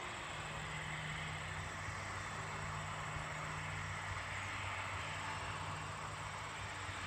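Aircraft engines running: a steady drone and hiss with a low hum underneath, holding level throughout.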